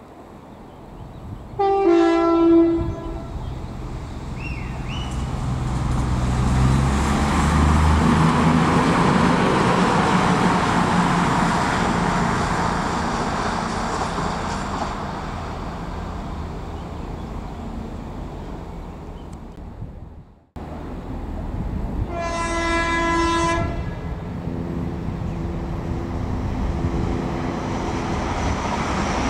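CrossCountry Voyager diesel multiple unit sounding its horn briefly about two seconds in, then running past at speed, its engine and wheel noise swelling and slowly fading. After a sudden cut about two-thirds of the way through, another train's horn sounds once for about a second and a half over a steady engine drone.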